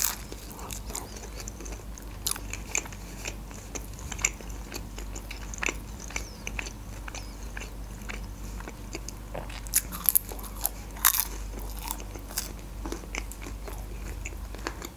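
Close-miked chewing of a soft, thick pancake: wet mouth clicks and smacks at an irregular pace, with a few louder smacks about ten to eleven seconds in.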